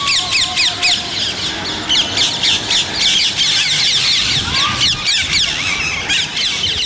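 A flock of rose-ringed parakeets calling: many short, shrill, downward-sliding calls overlapping in a continuous chatter.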